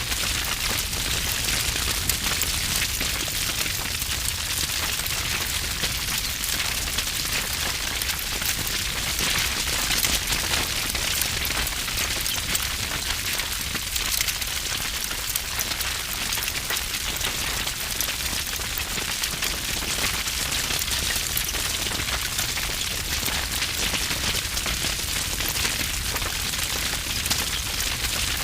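Wood fire burning with dense, continuous crackling and popping over a low rumble of the flames.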